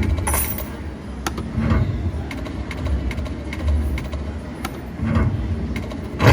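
Video slot machine sounds from a train-themed game: repeated low rumbling swells and a few sharp clicks as the reels spin, with a louder hit near the end.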